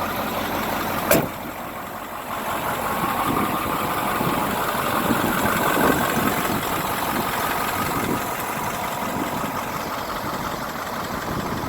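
1987 Ford F800 fire truck's engine idling steadily, with a single sharp knock about a second in.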